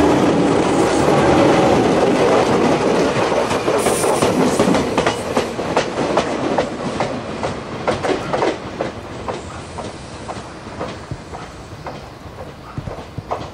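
Jōmō Electric Railway electric commuter train passing at close range and running away, its wheels clicking over the rail joints in irregular bursts. The sound starts loud and fades steadily as the train recedes.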